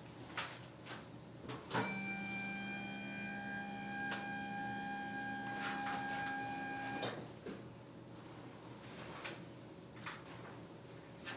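A small electric motor hums steadily for about five seconds, switching on and off with a click at each end; soft taps and clicks come before and after.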